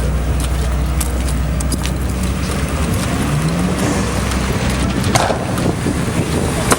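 Car engines running close by with a deep, steady rumble; about three seconds in, one engine revs up and back down.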